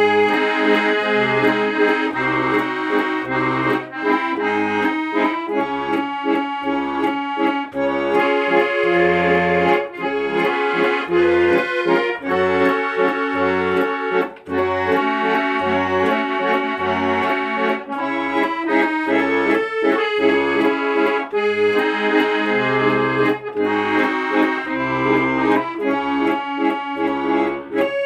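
Accordion music: a sustained, chord-rich melody over a regular pattern of separate low bass notes.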